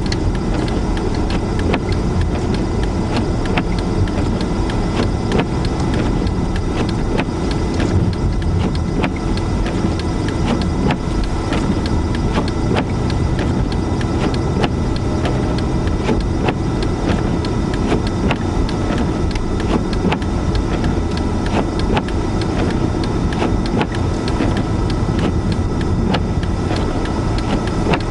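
Steady noise inside a car driving through a blizzard: the engine and road noise mixed with the rush of strong wind, with many small ticks throughout.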